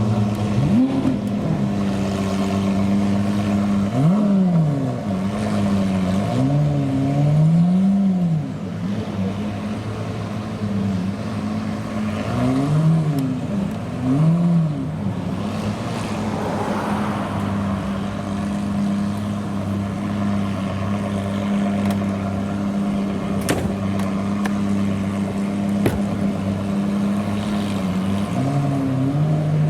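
Supercar engine idling steadily and revved in short throttle blips that rise and fall back to idle, in clusters of several blips with steady idle in between.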